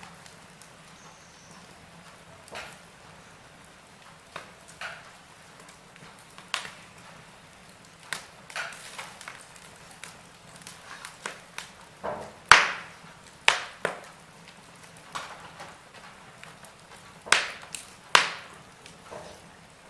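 Wood fire crackling in a fireplace: irregular sharp pops and snaps, a few seconds apart at first and more frequent later, over a faint steady hiss.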